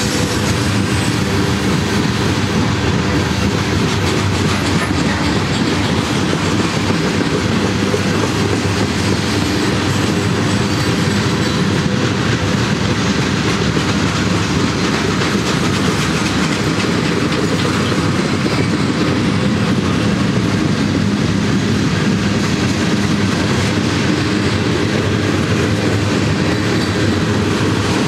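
Freight train cars rolling past: a steady rumble with the rattle of steel wheels running over the rails.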